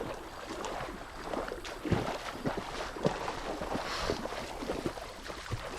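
Footsteps wading through shallow river water: irregular splashes and sloshing, with scattered knocks.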